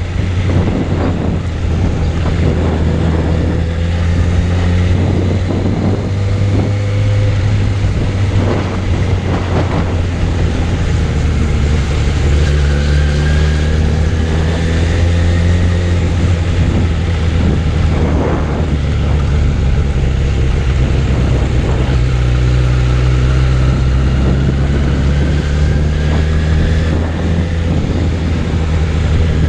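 Suzuki Bandit 600's inline-four engine running while the motorbike is ridden, with wind noise on the microphone. The engine note climbs slowly a couple of times as the bike gathers speed.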